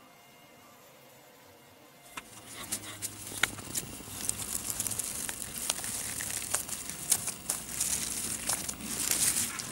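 Rustling and crackling with many small sharp clicks, starting about two seconds in.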